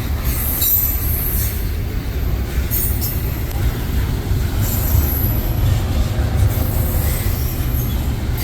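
Train passing close by, with a steady low rumble and thin, high wheel squeal that comes and goes.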